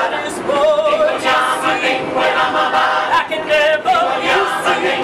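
A group of voices singing a cappella in harmony, with a lead voice holding wavering notes above the ensemble.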